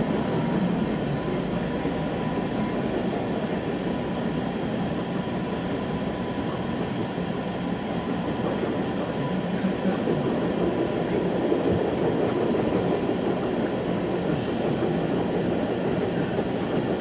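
West Coast Express commuter train running at speed, heard from inside a passenger coach: a steady rumble of wheels on rail.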